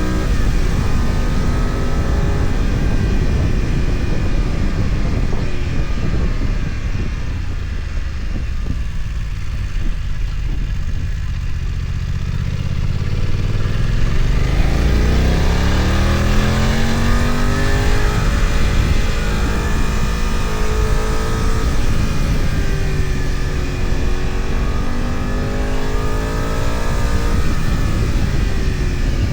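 BMW F900XR's 895 cc parallel-twin engine heard from on board, over steady wind and road noise. The revs fall early on and stay low for a while, then climb steeply about halfway through, dip, and rise again near the end as the bike works up the pass.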